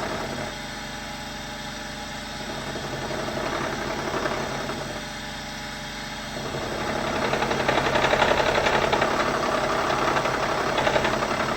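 Bridgeport milling machine running, its cutter squaring up the end of a metal part. The cutting noise is quieter for the first half and gets louder and rougher from about halfway through.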